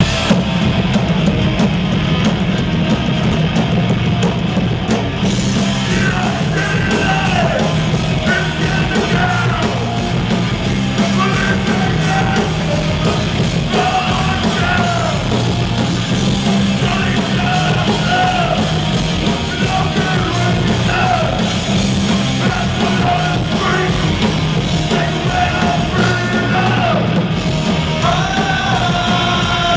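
Punk rock band playing live at a loud, steady volume. Shouted vocals come in about six seconds in and carry on over the band.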